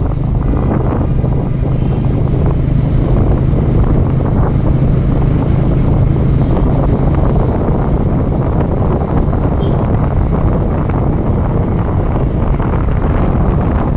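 Loud wind rumbling on the microphone, with a steady low hum underneath that fades out about halfway through.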